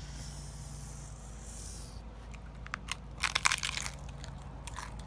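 A crisp taco shell crunching as someone bites into it. It is a short cluster of crackles about halfway through, with a few smaller crunches near the end.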